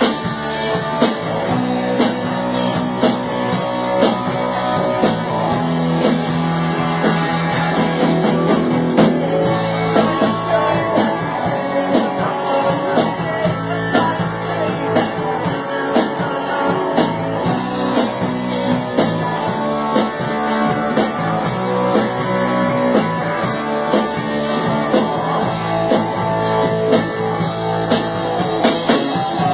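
Rock band playing an instrumental passage: guitar over a drum kit keeping a steady beat.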